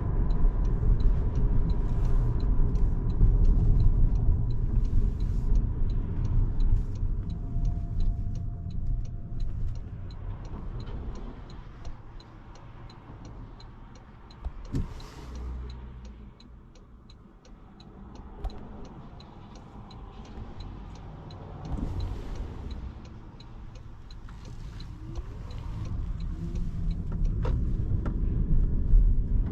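Road and tyre rumble of a 2025 Toyota Camry heard from inside the cabin while driving, loud at first, dropping away through the middle as the car slows, and building again near the end as it picks up speed. A regular light ticking runs through it.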